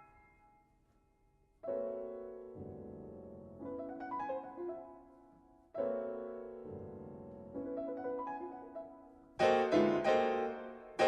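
Solo piano music: chords struck and left to ring, with a louder, brighter passage starting near the end.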